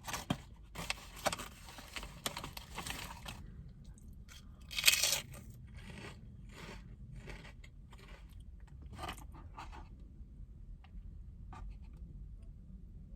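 Close-miked crunching and chewing of crisp food. The crunches are dense for the first few seconds, with one loud crackle about five seconds in, then thin out to quieter chewing.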